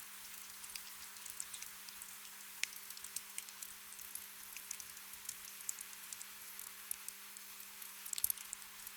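Gentle rain: a steady hiss with scattered drops pattering and ticking, over a faint steady low hum. A brief flurry of louder drops comes about eight seconds in.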